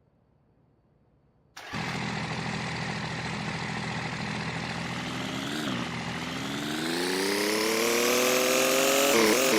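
Near silence, then after about a second and a half an engine starts sounding abruptly, running steadily before its pitch climbs gradually and unevenly through the second half.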